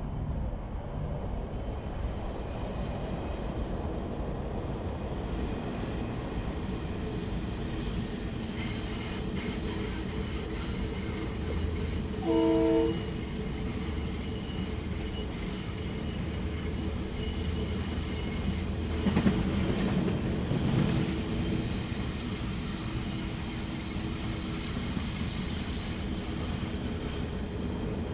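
Freight train running past: a steady rumble and clatter of wagons on the rails, and the diesel-electric locomotives' engines. A short blast of the locomotive horn comes about halfway through. The sound swells louder a few seconds later as the locomotives come alongside.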